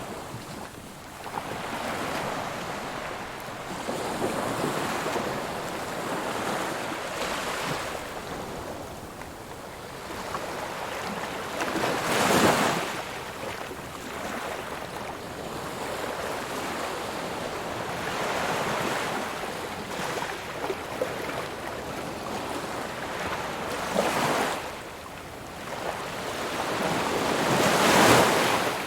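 Ocean waves washing in on the shore, a steady hiss of surf with louder breaking swells about twelve seconds in, near twenty-four seconds and again near the end.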